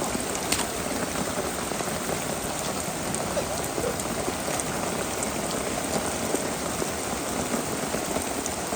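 Heavy rain falling steadily, a dense hiss with scattered sharper drop hits close by.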